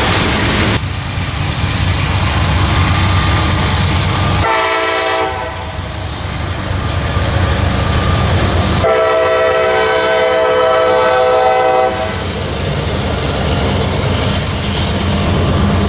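A train passing close by with a steady rumble and wheel noise, while the locomotive sounds its multi-note air horn twice: a short blast about four and a half seconds in, then a longer blast of about three seconds starting about nine seconds in.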